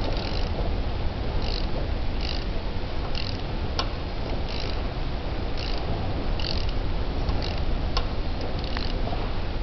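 Engine being turned over slowly, with a knock recurring about once a second over a steady low rumble; the owner places the knock just before top dead centre and finds it worrying.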